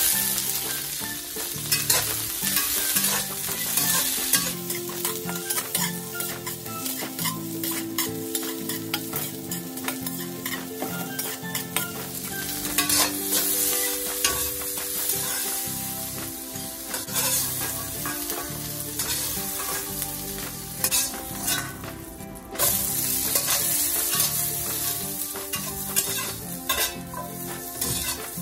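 Vegetables sizzling in hot olive oil in a stainless steel wok, stirred with a metal slotted spoon that scrapes and clicks against the pan. About two-thirds of the way through the sizzle suddenly gets louder.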